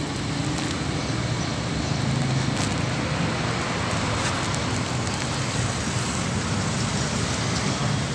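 A 4400 cc V8 engine in a Toyota Hilux running steadily, with no revving.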